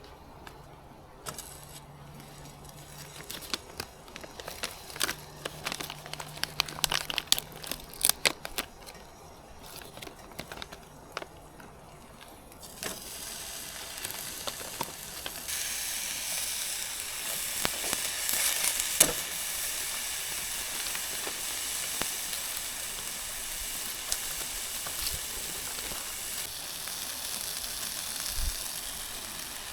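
Scattered clicks and handling noises, then, about thirteen seconds in, a steady sizzle with small pops starts up: food frying in a hot pan.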